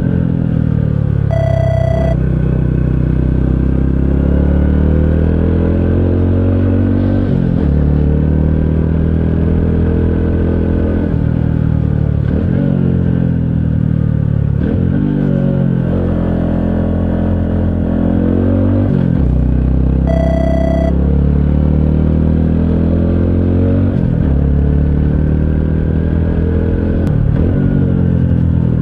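Honda CT125 Hunter Cub's 125 cc air-cooled single-cylinder engine running under way, its revs climbing and then dropping sharply several times, as with gear changes and easing off the throttle. Two short electronic beeps sound, one near the start and one about two-thirds of the way through.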